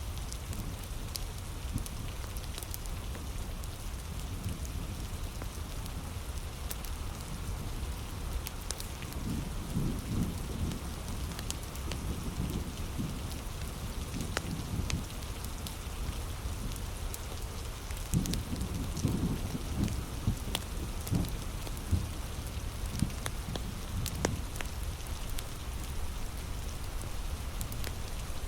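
Heavy rain falling steadily, with scattered sharp crackles and pops from a wood fire. Two stretches of low rumbling come about a third and two-thirds of the way through.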